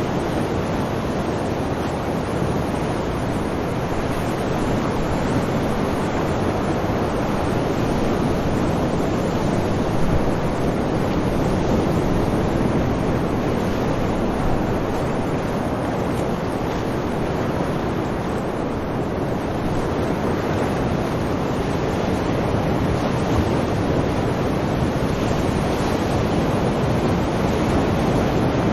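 Sea waves: a steady, continuous wash of surf that swells and eases slowly, with no distinct single breakers.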